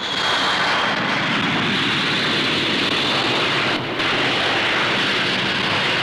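Avro Vulcan B.2's four Bristol Siddeley Olympus jet engines at full power as the bomber climbs away, a steady loud jet noise with a faint high whine at the start. The sound dips briefly just before four seconds in.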